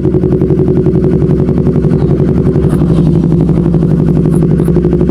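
Motorcycle engine running steadily at an unchanging pitch, with an even, rapid pulse from its firing.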